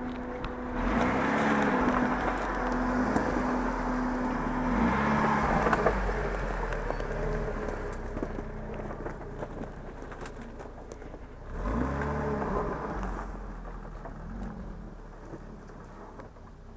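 Off-road 4x4's engine revving up and down under load, with tyre and ground noise. It is loudest for the first few seconds, fades away, then revs again briefly about twelve seconds in.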